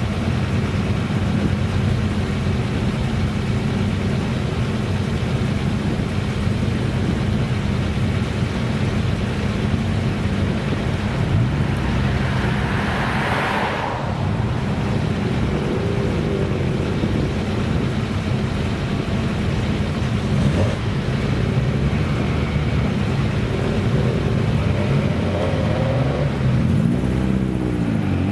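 Classic car engine running steadily at idle, with a brief swell of noise midway and another car passing close by near the end.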